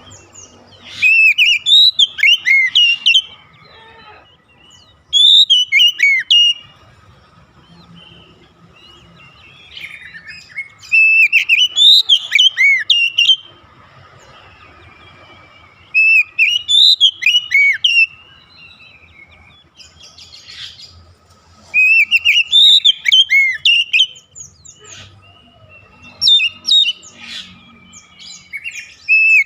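Oriental magpie-robin singing: loud, varied phrases of quick swooping whistles, each burst lasting one to three seconds and repeated every few seconds.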